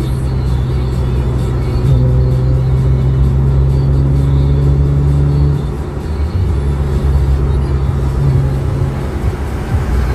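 Hyundai Tiburon GT's V6 engine and exhaust droning steadily at highway cruise, heard from inside the cabin over tyre and road noise. The drone eases a little past halfway.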